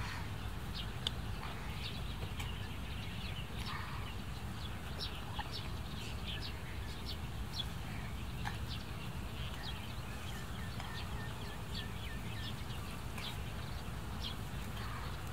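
Birds calling in many short, scattered chirps, over a steady low rumble.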